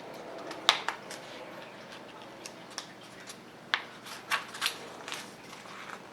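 Paper pages of a picture book being handled and turned: a string of short, crisp rustles and clicks.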